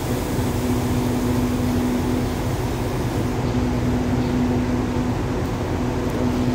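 Standing diesel passenger train idling, a steady drone with a steady hum that drops out briefly twice.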